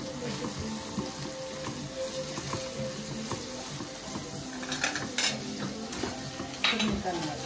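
Onions frying with turmeric and red chilli powder in a non-stick pot, sizzling steadily while a spatula stirs them. Twice in the second half the spatula scrapes louder against the pot.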